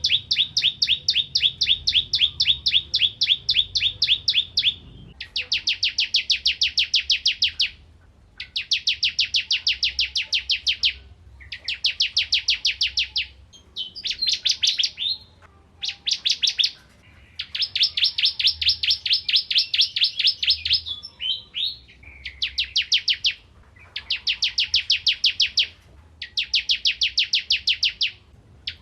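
Ciblek kristal (crystal prinia) singing: bursts of rapid, evenly repeated high notes, about eight a second, each burst lasting two to three seconds with short pauses between.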